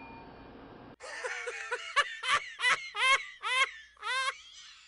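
A high-pitched, squeaky laugh of short rising syllables, about six loud ones in a quick run, the last held longest. It follows the tail of a bell-like ding.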